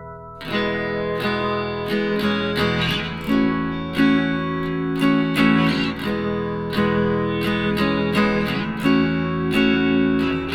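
Music: acoustic guitar strumming chords in a steady rhythm, starting about half a second in after a held chord fades out.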